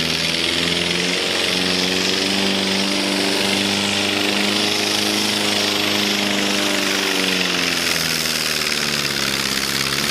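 Open-class pulling tractor's engine running at full power under load as it drags the weight-transfer sled. The note rises slightly about a second in, holds steady, then drops away over the last few seconds as the pull winds down.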